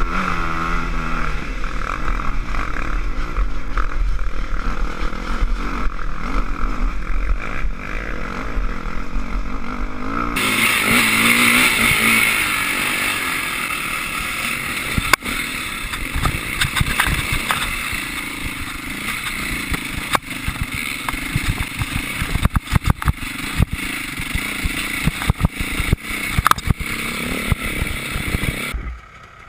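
Enduro dirt bike engine running and revving, with pitch rising and falling. About ten seconds in the sound changes abruptly to a brighter, noisier engine sound with many sharp knocks and rattles.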